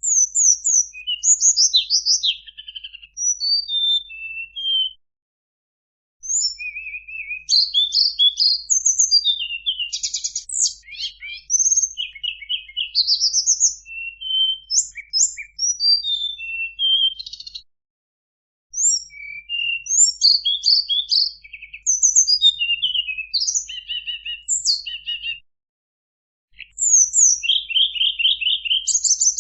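Tledekan gunung songbird singing a varied, rapid song of high chirps, quick trills and sweeping notes, delivered in long phrases with three short pauses of about a second.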